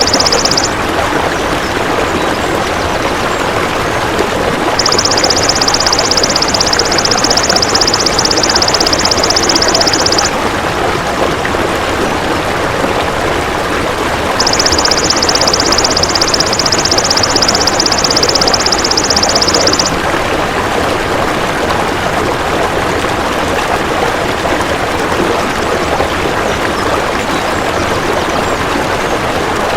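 Belalang emas (golden grasshopper) stridulating in a high, rapid buzzing trill. The trill comes in bursts of about five and a half seconds: one ends just after the start, then two more follow about four seconds apart. A steady rushing of running water goes on underneath throughout.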